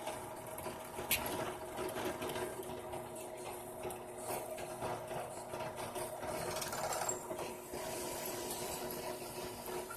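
Small electric power tool's motor running steadily, with a constant whine.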